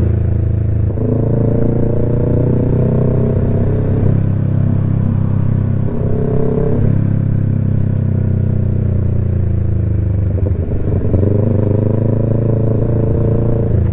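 Yamaha MT-03 parallel-twin engine running steadily under a rider's throttle. The engine note dips briefly about six seconds in and again around ten to eleven seconds.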